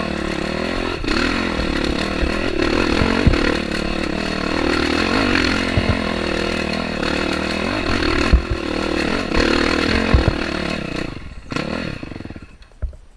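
Dirt bike engine on a rough trail, its revs rising and falling over and over, with sharp clunks and knocks from the bike over the ground. The engine sound drops away near the end.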